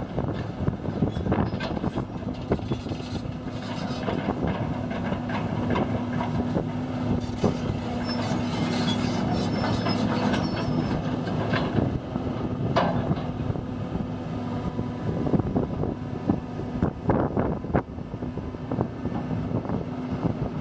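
John Deere 200 CLC hydraulic excavator running, its diesel engine holding a steady hum under irregular metallic clanking and clatter, with a brief high squeal about halfway through.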